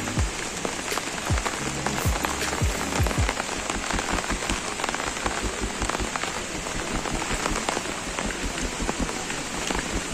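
Steady rain falling on a wet street, with many sharp drop taps throughout.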